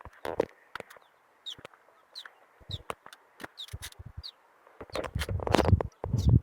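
Chickens clucking, with short high peeps repeating about every half second. About five seconds in, a loud low rumbling noise comes in over them.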